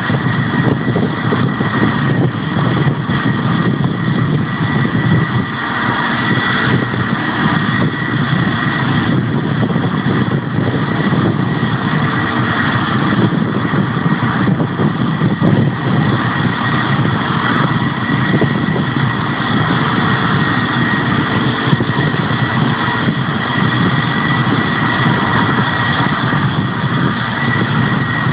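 Jet airliner engines running steadily, a loud even rush with a high, unchanging whine.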